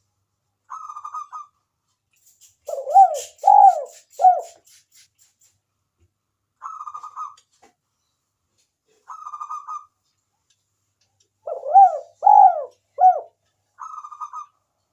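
Spotted dove (tekukur) cooing: two phrases of three rising-and-falling coo notes. Short, fast, higher-pitched trills of about half a second come between them, four times in all.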